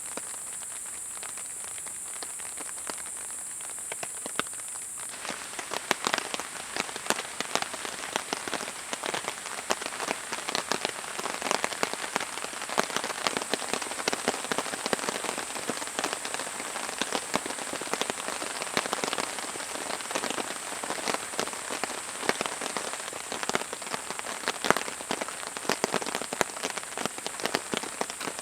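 Rain falling: a dense, irregular patter of raindrops that sets in about five seconds in and keeps on steadily, over a constant high-pitched hiss.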